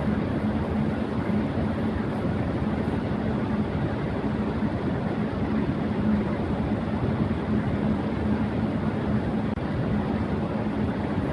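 Electric fan running at high speed: a steady airy whoosh with a low, even hum underneath.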